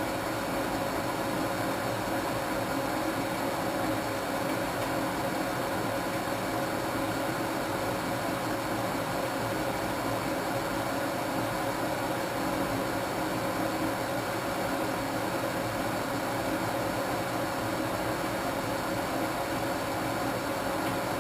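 Old washing machine running steadily through its cycle: a constant even mechanical whir with a steady hum, unchanging throughout.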